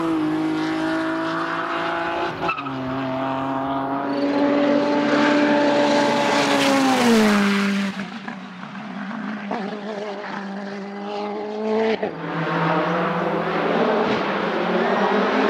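Racing car engines at full load on a hillclimb, the engine note holding high and rising through the gears. About halfway the pitch falls steeply as a car brakes and downshifts, then it climbs again. The sound changes abruptly twice, where it cuts to another car.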